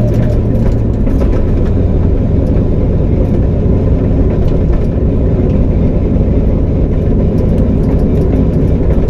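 Fox-body Mustang's 5.0 V8, its exhaust dumped behind the door, running loud and steady with no revving.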